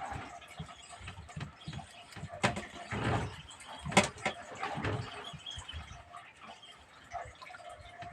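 Irregular knocks, clicks and rustles of handling gear aboard a small fishing boat, the sharpest knock about four seconds in.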